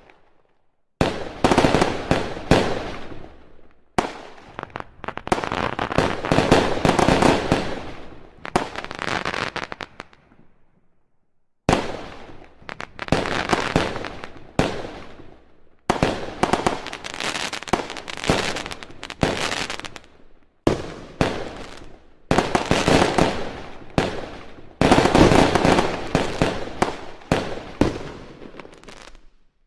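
Fireworks going off: rapid volleys of bangs and crackling in clusters a few seconds long, with a short quiet break about ten seconds in.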